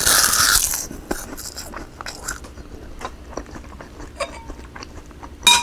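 Close-up eating sounds: a loud crunchy bite into fried cod wrapped in crisp seaweed in the first second, then quieter chewing with small wet clicks. A brief clink comes near the end.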